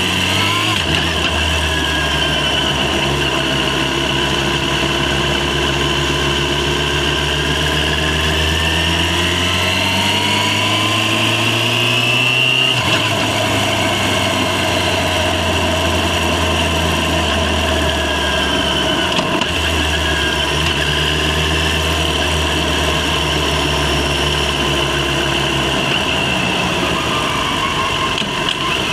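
Yamaha FZ6's inline-four engine running under way, heard from the rider's helmet camera. Its note climbs slowly in pitch, then changes abruptly about halfway through and shifts again later, over steady wind and road noise.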